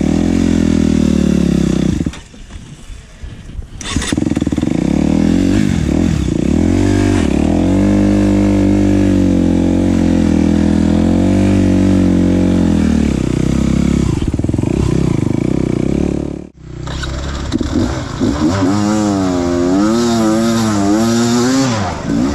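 Enduro dirt-bike engine running and revving, its pitch rising and falling with the throttle. It drops away briefly about two seconds in. It breaks off suddenly about sixteen seconds in and comes back with a quick up-and-down wavering rev.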